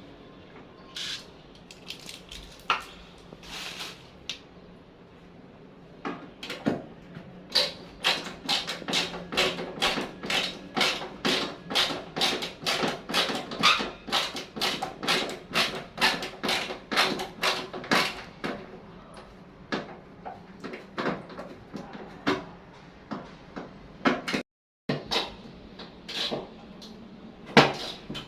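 A quick run of sharp clicks, about three a second for some ten seconds, with scattered knocks before and after.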